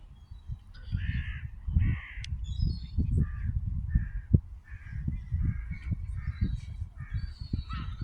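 Birds cawing in a long series of short, harsh calls, about two a second, over a low rumbling on the microphone.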